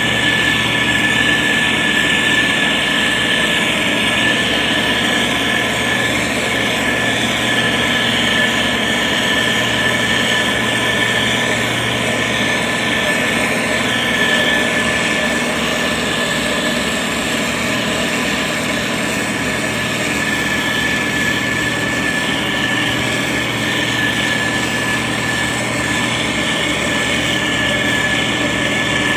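SANY STG190C-8S motor grader's diesel engine running steadily, with a steady high-pitched whine over it.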